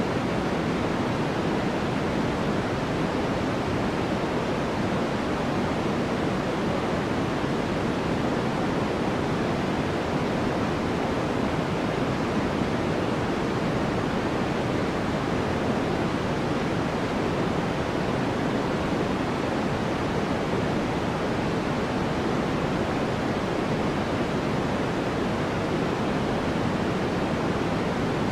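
Steady white-noise background track: an even, unbroken hiss, fuller in the lower range than the top.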